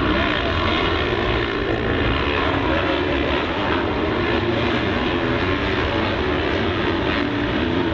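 Motocross bike engine running hard, its pitch rising and falling as the throttle works, over a heavy low rumble.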